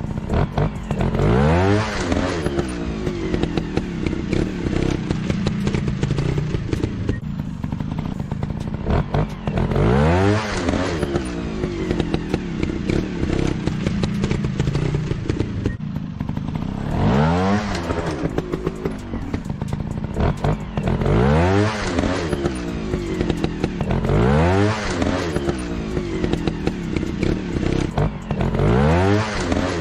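Dirt bike engines running, with about six sharp revs in which the pitch climbs and drops back again.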